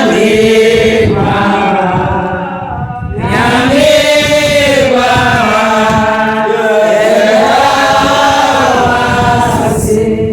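A group of voices singing a song together, holding long notes, with a brief dip about three seconds in.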